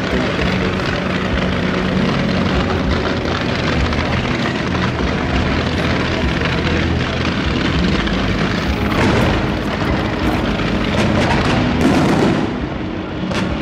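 A steady engine drone. About nine seconds in, fireworks begin going off: a run of sharp bangs and crackling that grows denser toward the end.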